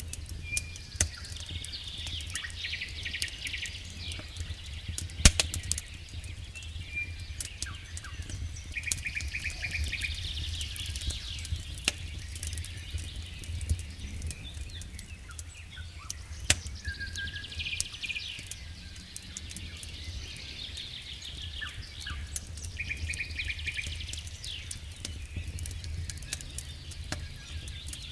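Wood fire crackling, with many small clicks and a few loud pops, over a steady low rumble. Birds sing a short trilled phrase that repeats every several seconds.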